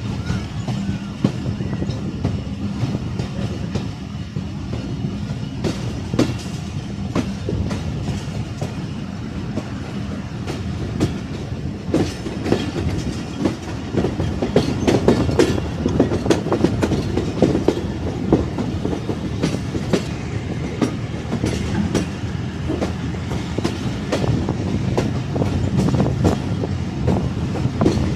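Moving Pakistani passenger train: a steady rumble with wheels clattering over the rail joints, growing louder and busier about halfway through.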